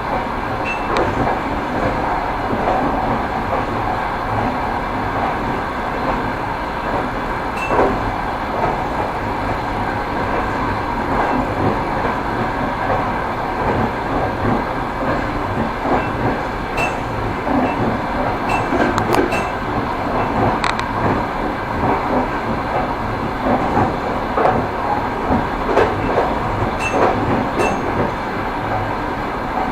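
Train wheels rolling over rail joints: a steady rumble with clickety-clack knocks that come in clusters, heard from a moving train.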